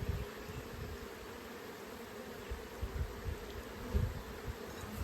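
Honeybees buzzing steadily around an open hive during a frame inspection, with a few low bumps and rumbles.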